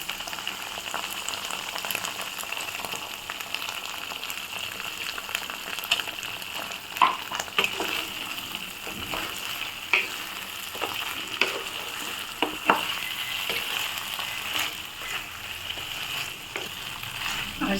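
Raw chicken frying in hot oil and spice paste in a karahi, a steady sizzle broken by scattered scrapes and knocks of a spoon stirring in the pan.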